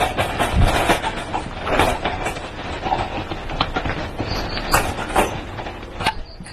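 Irregular knocking and clattering, as ostriches are loaded into the back of a vehicle.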